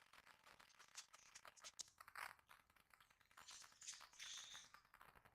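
Faint, irregular small clicks and a couple of brief scrapes: a screw with a rubber washer cut from an inner tube being fitted into the motorcycle's plastic front fairing by hand.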